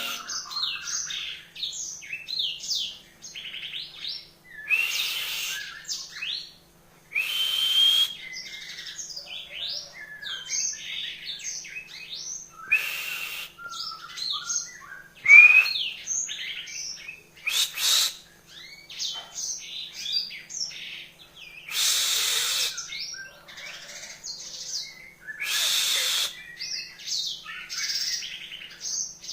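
Yellow-fronted canary (Mozambique singer) singing: a fast, jumbled run of varied chirps, trills and short whistled notes in phrases separated by brief pauses, over a faint steady hum.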